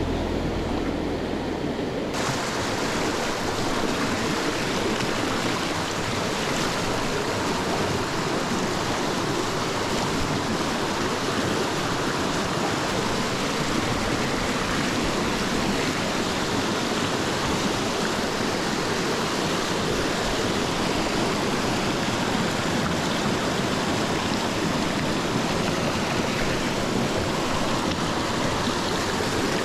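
Mountain stream water rushing steadily, an even, unbroken noise. It takes over about two seconds in, when a low rumble cuts off.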